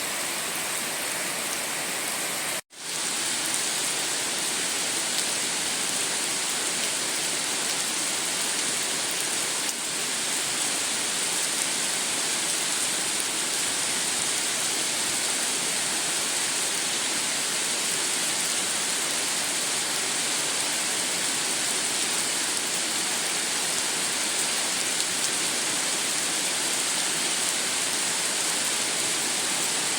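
Steady heavy rain, a dense even hiss of falling water. It drops out for an instant about two and a half seconds in, then fades straight back.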